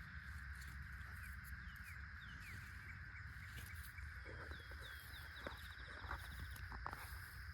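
Birds chirping faintly in short sliding notes, with a quick rapid trill about five and a half seconds in, over a steady outdoor hum and low rumble.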